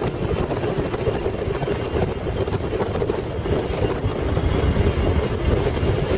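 Steady rush of airflow and wind buffeting inside the cockpit of a light plane gliding with its engine failed and propeller stopped.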